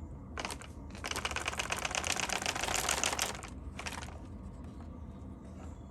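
A rapid, even mechanical clicking rattle lasting about two and a half seconds, with a few single clicks just before and after it.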